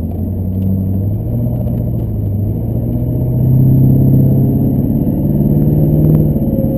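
Chevrolet Duramax LB7 6.6-litre V8 turbodiesel accelerating in the pickup, heard from inside the cab: the engine note climbs steadily in pitch and gets louder through the first few seconds, then dips briefly near the end.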